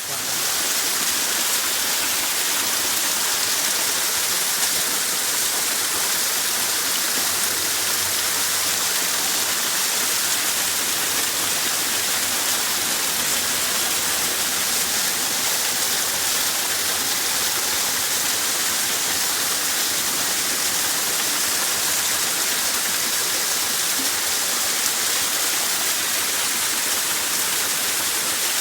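Steady rushing water, an even unbroken hiss that begins abruptly.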